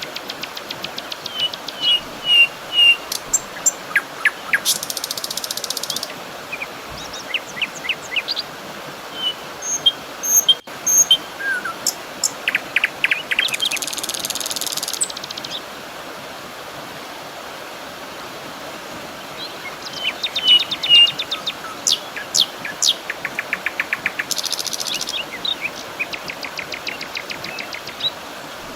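Wild birds chirping and trilling in short bursts over a steady outdoor hiss of natural ambience, with a lull in the calls about halfway through.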